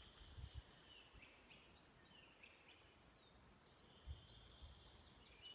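Faint forest birdsong: small songbirds chirping, with a sustained high trill at the start and another from about four seconds in. A couple of faint low thumps are heard beneath it.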